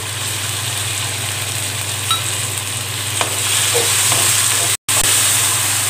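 Freshly added tomato pieces and onions sizzling in hot oil in a metal kadai, stirred with a wooden spatula: a steady frying hiss over a low steady hum. The sound drops out for an instant a little before five seconds in.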